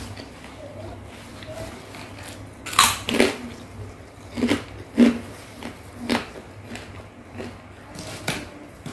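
Close-up mouth sounds of a person chewing a mouthful of rujak cingur, with about half a dozen sharp wet smacks, the loudest about three and five seconds in.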